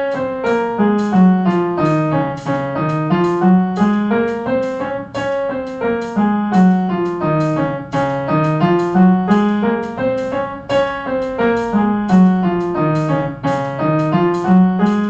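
Piano playing the D flat major scale in quick, even eighth notes, running down and back up again several times without a break.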